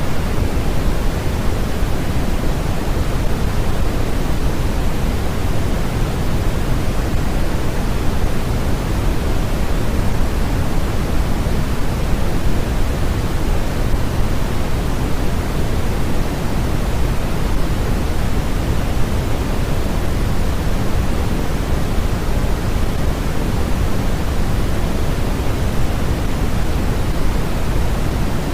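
Steady generated noise for sleep, a constant deep hiss with most of its weight in the low end, the same throughout with no events in it.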